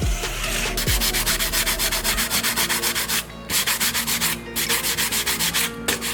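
Hand sanding on a small scale model car body: sandpaper rubbed back and forth in quick, even strokes, about six a second, with two brief pauses.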